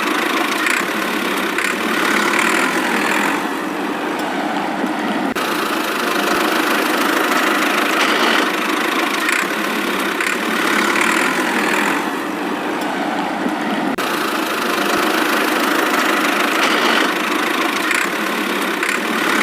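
A small motor running steadily with an even mechanical whir and no pauses.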